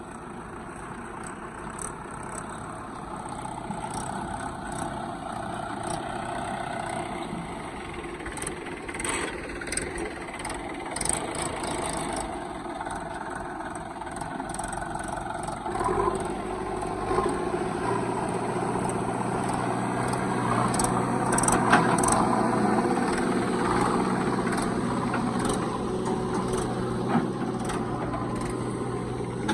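Heavy diesel engines of a backhoe loader and tractors running as mud is loaded, with scattered knocks and clanks. A steadier, deeper engine hum sets in a little over halfway.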